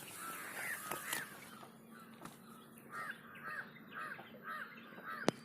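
Crows cawing, a run of short calls about two a second, with a sharp click near the end.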